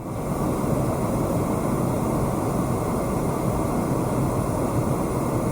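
Steady rushing noise of a Boeing 777-300ER's engines and airflow, heard from inside the passenger cabin.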